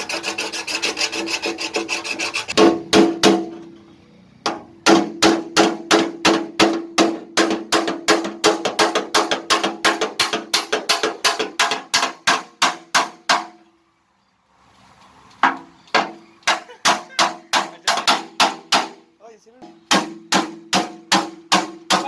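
Hand tool worked in quick repeated strokes on a tractor's sheet-metal body panel during denting repair. The strokes come about three a second, in runs broken by short pauses, and the panel rings under them.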